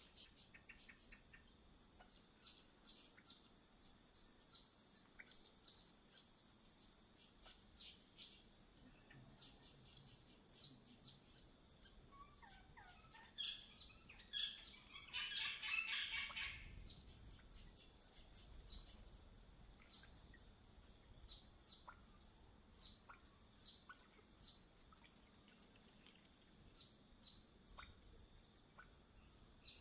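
Birds calling: a steady run of short, high chirps repeated about twice a second, with a louder, harsh chattering call about halfway through.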